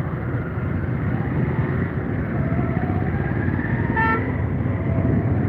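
Street traffic running steadily, with a short horn beep about four seconds in.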